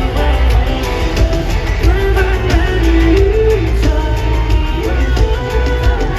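Live pop-rock band music with a steady drum beat and heavy bass, a melodic line moving over it.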